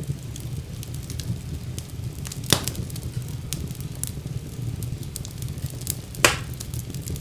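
Wood fire burning in a fireplace: a steady low rumble with scattered small crackles and two sharper pops, about two and a half seconds in and near the end.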